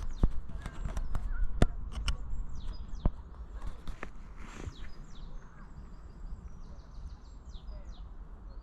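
Small birds chirping and twittering over a low rumble, with several sharp clicks in the first three seconds.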